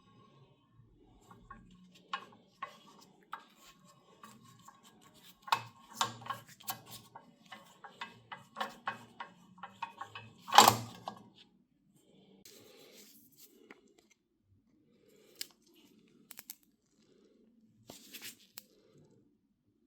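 Hand work on a small object: a quick run of clicks and light knocks, with one loud knock about ten seconds in, then a few scattered clicks.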